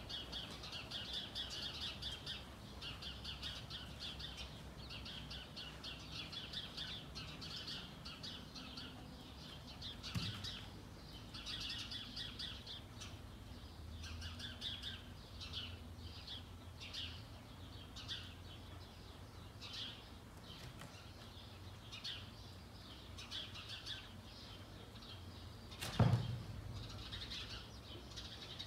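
Small birds chirping rapidly and continuously, dense at first and thinning to scattered chirps later. A single sharp knock stands out near the end.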